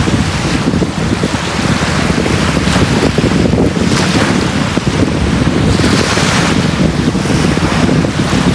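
Sea waves washing on a beach: a continuous rushing surf with a heavy low rumble, and a wave's hiss swelling about six seconds in.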